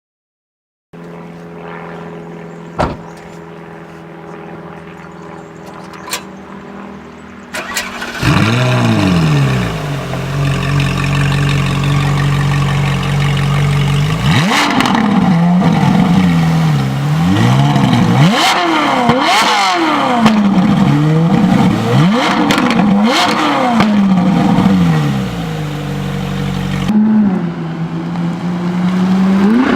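Novitec-tuned Ferrari 458 Italia V8 starting up. A steady low hum with a few clicks gives way, about eight seconds in, to a loud start-up flare that settles into idle. Then come repeated sharp free-revs, dropping back to idle near the end before rising again.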